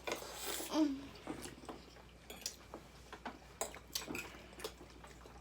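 Eating at a table: scattered small clicks of forks on plates and chewing, with a short hum of a voice about a second in.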